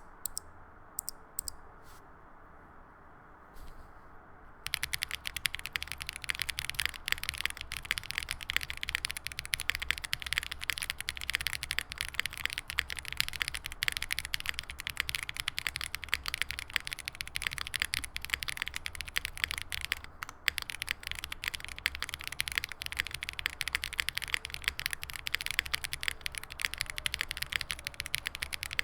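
Gasket-mounted Space65 R3 mechanical keyboard with an FR4 plate, foam-dampened, and lightly tactile Gateron Azure Dragon switches under GMK keycaps being typed on. A few single key presses, then from about five seconds in, continuous fast typing with a brief pause about two-thirds of the way through.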